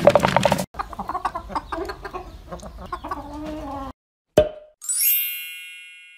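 Cartoon chickens clucking and squawking for about four seconds, then a short thump and a bright bell-like ding that slowly fades.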